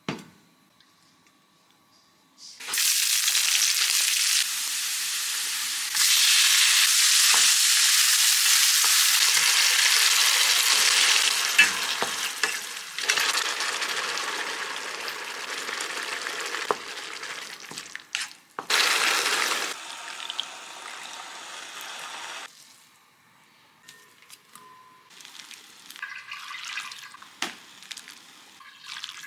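Loud steady sizzling of food frying in a hot pan, starting about two seconds in and stopping sharply about 22 seconds in, followed by quieter scattered clicks and clinks.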